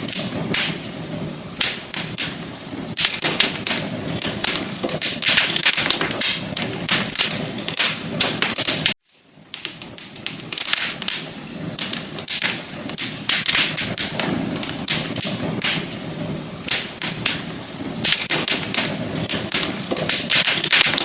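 Wood fire crackling, with dense irregular pops and snaps over a low rushing hiss. About nine seconds in the sound cuts out abruptly and then fades back in.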